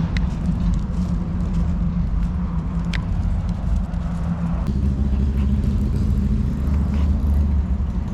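An engine running steadily, its note shifting lower and fuller about halfway through.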